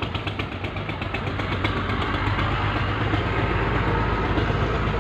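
Belarus tractor's diesel engine idling steadily.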